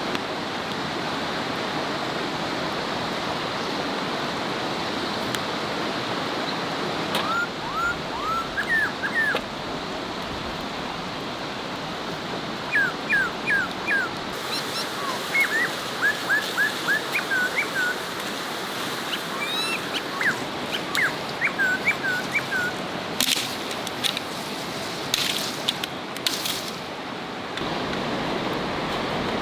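An animal's short, high yips or chirps in quick runs of three to five, over a steady rushing background noise. A few sharp clicks follow near the end.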